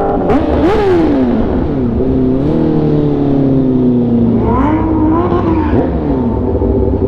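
Sportbike engine revving up and easing off several times, its pitch climbing and then sliding slowly back down, over a steady low rumble.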